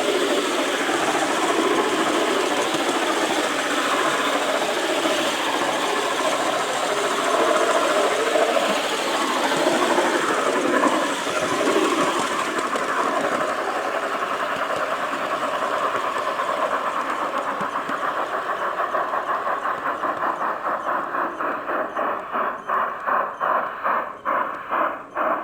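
G-scale garden model train rolling along its track, a steady rattle of wheels and drive. In the last several seconds it turns into an even clicking, about two clicks a second.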